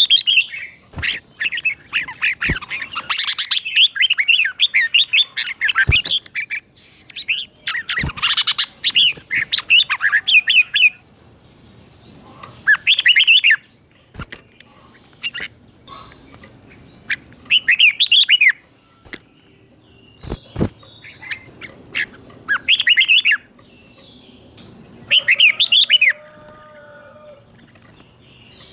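Red-whiskered bulbul singing in quick, bubbling warbled phrases, densely for about the first ten seconds, then in short bursts every few seconds. A few sharp clicks sound in between.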